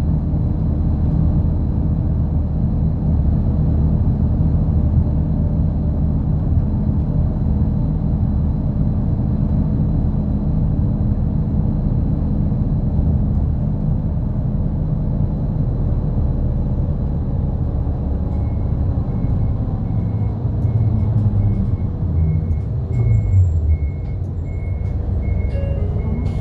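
A route bus's diesel engine running as the bus drives, heard from inside the passenger cabin, its note dropping as the bus slows near the end. From about two-thirds of the way in, a short high beep repeats about one and a half times a second.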